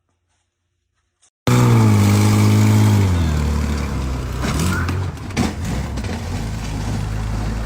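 Near silence, then about a second and a half in a car engine starts up loud, its pitch falling over the next second or so before it settles into a steady low running, with a brief knock near the middle.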